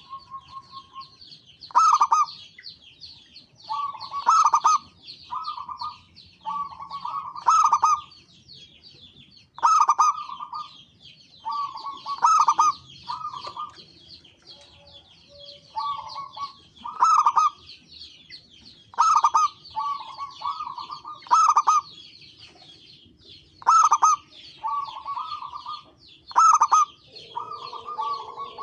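Zebra doves (perkutut) cooing: short ringing coo phrases repeat over and over, with a loud note about every two seconds. A constant high chittering runs behind them.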